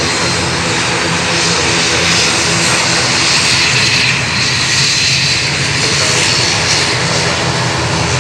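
ATR 72-600 turboprop's engines and propellers at takeoff power: a loud, steady drone with several steady propeller tones.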